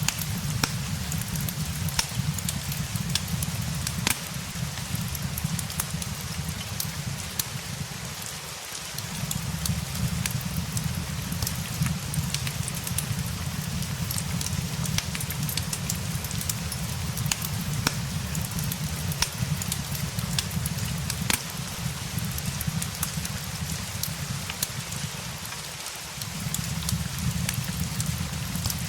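Steady rain mixed with a crackling fireplace: an even hiss of rainfall under scattered sharp pops and snaps from burning wood. A low rumble underneath drops out briefly twice, about a third of the way in and near the end.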